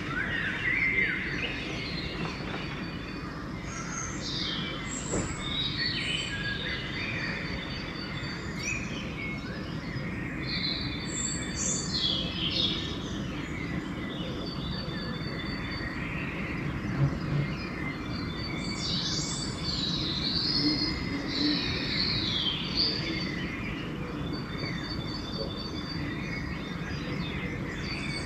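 Dawn chorus of several songbirds, overlapping chirps, whistled phrases and rapid runs of repeated high notes, over a steady low rumble of background noise.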